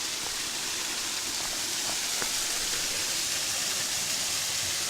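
Steady rushing hiss of a waterfall with only a little water falling, with a few faint clicks.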